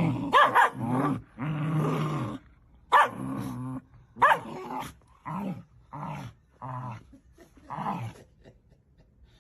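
A dog vocalizing in a string of about ten pitched, growly calls that bend in pitch, one held longer about two seconds in, getting quieter toward the end.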